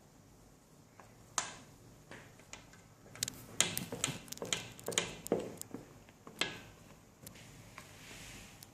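A mixing utensil scraping and clicking against a mixing bowl as flour is stirred into cake batter. The sound is irregular: a single click, then a busy stretch of scrapes and taps in the middle before it quietens.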